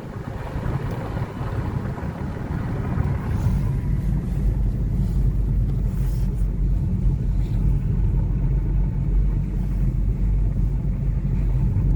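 Car driving along a road, heard from inside the cabin: a steady low engine and road rumble that grows louder over the first few seconds, then holds.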